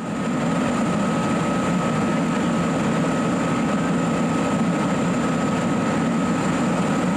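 Fire engine running steadily close by, a constant rumble with a faint thin steady tone above it.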